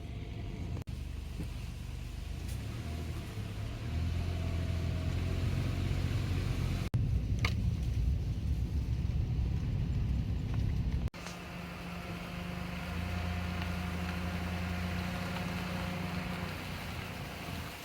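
Car driving along a road: a steady low engine hum with tyre and road noise, broken abruptly by short gaps a few times.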